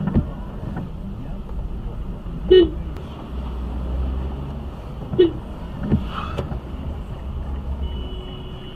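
Steady low rumble of a car driving, as picked up by a dash camera, broken by a few short, sharp sounds, the loudest about two and a half seconds in.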